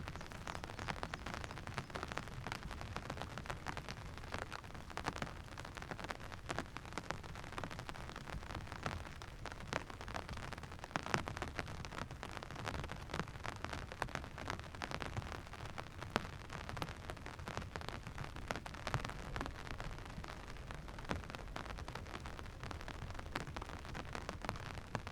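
Steady rain falling, with a dense crackle of close drop hits over a low rumble.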